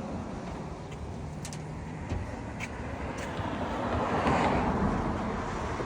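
A passing road vehicle: its rushing noise swells to a peak about four seconds in, then fades.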